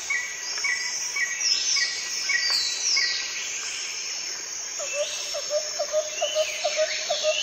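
Birds calling: a short chirp repeated about twice a second for the first three seconds, with high whistles sweeping downward. From about five seconds in, a lower call repeats about three times a second.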